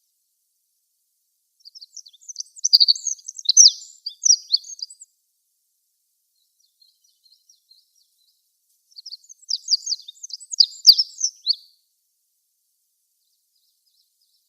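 Olive-backed pipit singing: two rapid, high-pitched song phrases of about three seconds each, a fast jumble of thin trilled and sliding notes, the first starting a couple of seconds in and the second about four seconds after it ends.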